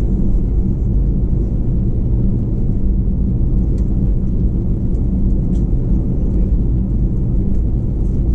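Steady low rumble inside the cabin of an Airbus A321-211, its CFM56 engines running, with a few faint clicks from the cabin.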